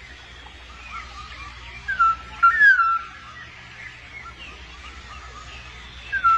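Black-naped oriole giving loud whistled calls: a short rising note about two seconds in, then a longer gliding whistle half a second later. Fainter bird chirps run underneath, over a low steady hum.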